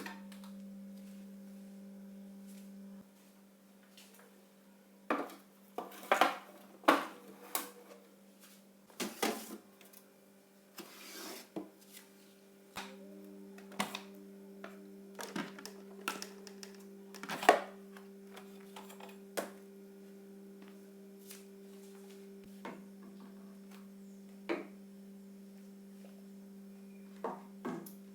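A steady electric hum from a kitchen appliance, stopping about three seconds in and coming back about halfway through, under scattered clicks, knocks and clatters of things being handled.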